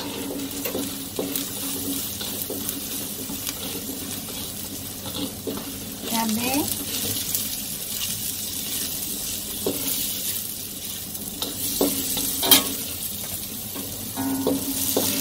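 Chopped garlic, shallots and chilli strips sizzling in margarine in a wok, with a spatula scraping and knocking against the pan as they are stirred. There is one sharper knock near the end.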